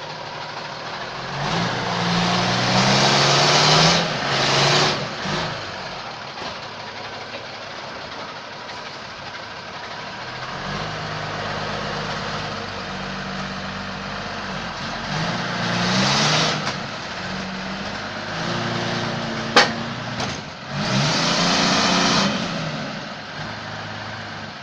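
Truck's diesel engine running as the truck moves, its pitch rising and dropping back several times. Loud bursts of hiss come three times, and there is one sharp click near the end.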